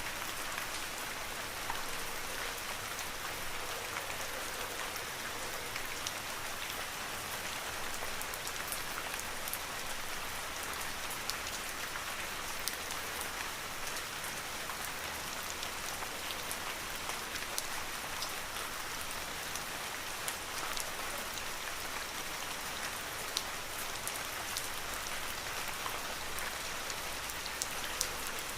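Steady rain falling in an even hiss, with scattered individual drops ticking sharply close by.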